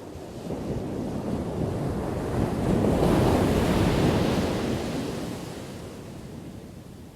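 A single ocean wave crashing on the shore: the surf builds, is loudest about three to four seconds in, then washes back and fades near the end.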